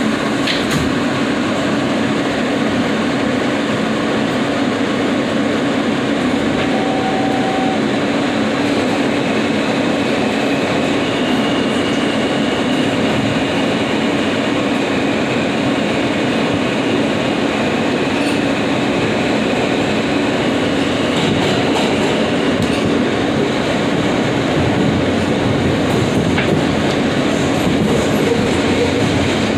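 New York City subway F train running between stations: a steady rumble and rattle of the cars on the rails. A faint high wheel squeal comes in for a while in the middle.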